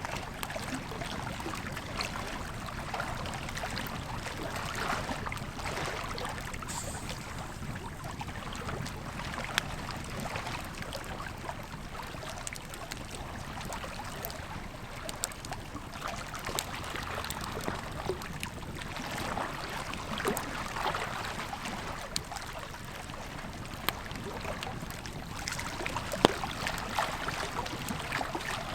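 Wood campfire crackling with scattered sharp pops, one loud pop near the end, over the steady rush of a flowing river.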